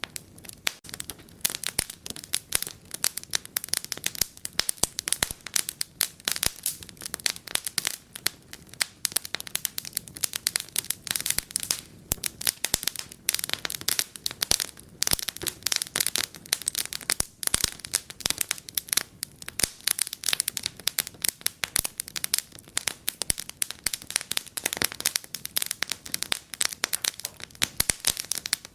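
Wood fire crackling and popping in a fireplace, a steady run of small sharp snaps at an uneven pace.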